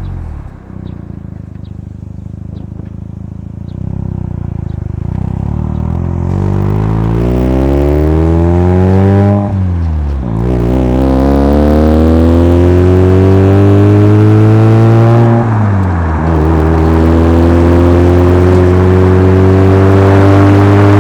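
Mazda RX-7 FC3S's turbocharged two-rotor 13B rotary engine through a Knight Sports Legal Sports exhaust, accelerating through the gears. After a few seconds of low, steady running the pitch climbs, drops sharply at an upshift about halfway through, climbs again, drops at a second upshift about three-quarters of the way in, then climbs more slowly.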